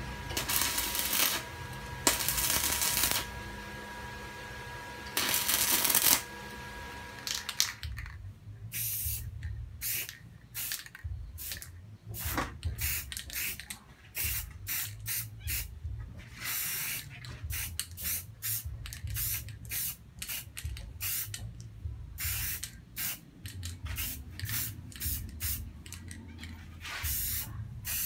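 Aerosol spray paint can hissing in many short bursts of a second or less, with brief pauses between them. In the first eight seconds or so, before the spraying, a stick welder crackles in three bursts of about a second each.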